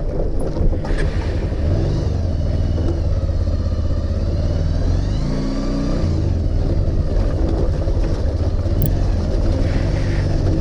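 Motorcycle engine running steadily under way, its note rising and dropping back about halfway through.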